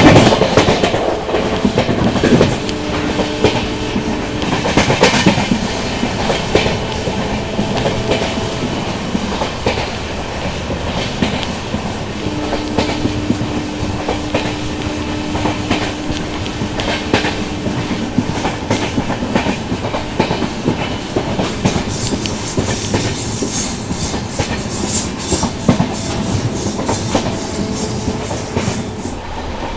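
Passenger train running along the track, its wheels clattering over rail joints above a steady rumble, with faint steady hums that come and go.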